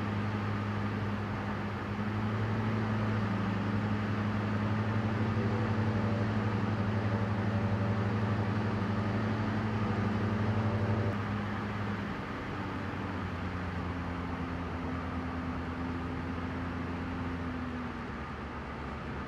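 Diesel Cessna 172's engine and propeller droning steadily, heard from inside the cockpit. About eleven seconds in, the engine note changes and the sound drops in level, then holds steady again.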